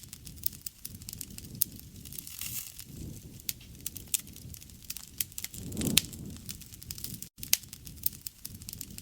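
Wood fire burning: dense crackles and sharp pops over a low rush of flame that swells twice. There is a split-second gap about seven seconds in.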